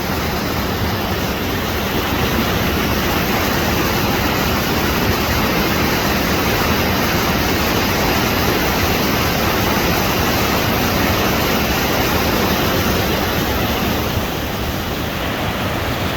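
Waterfall roaring: a heavy mountain snowmelt falls giving a loud, steady rush of water.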